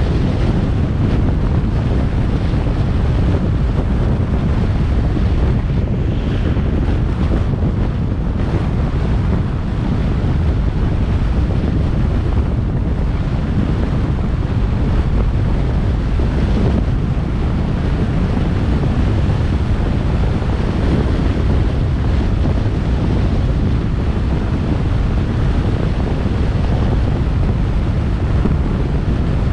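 Steady low rumble of wind buffeting the microphone, mixed with the road noise of a car driving.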